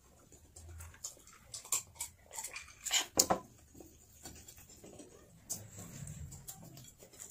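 Eating sounds close to the microphone: wet chewing and lip smacks, heard as a run of short clicks, loudest about three seconds in.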